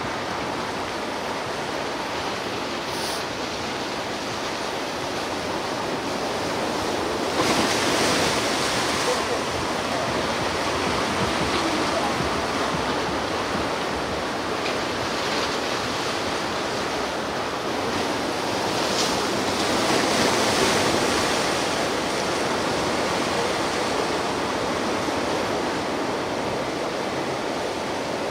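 Ocean surf washing on the shore: a steady rush of waves that swells louder about seven seconds in and again around twenty seconds.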